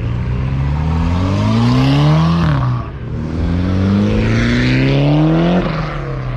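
Car engine revving hard: its pitch climbs for about two seconds, drops sharply, then climbs again for a couple of seconds before falling off, as a car accelerates through a gear change.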